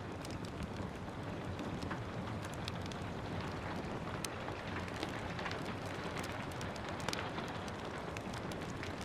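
Steady rain with a wood fire crackling over it: an even hiss broken by many small, irregular pops and snaps.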